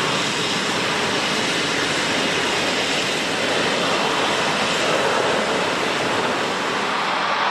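Steady jet-engine roar of a Japan Airlines Airbus A350's Rolls-Royce Trent XWB engines: an even, loud rushing noise with no distinct tones.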